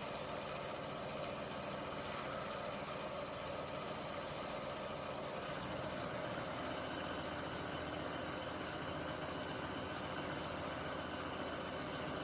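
Dyas 3 BDC-1200 industrial machine running with a steady mechanical hum, the tone shifting about five and a half seconds in.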